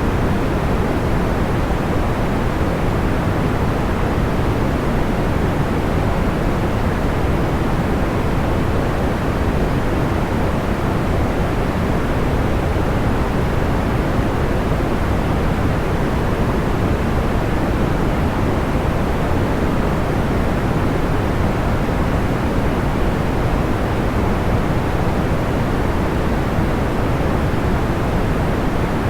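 Steady white noise, a soft even hiss weighted toward the low end, unchanging throughout, with no separate crackles or pops standing out.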